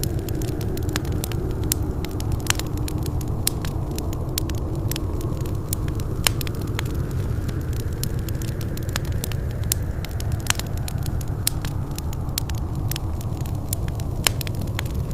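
Wood fire burning in a fireplace: a steady low rumble of flames with frequent sharp pops and crackles at irregular intervals.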